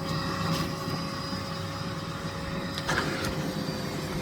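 Miele Blizzard CX1 bagless cylinder vacuum cleaner running steadily with a constant whine. There is a short knock about three seconds in.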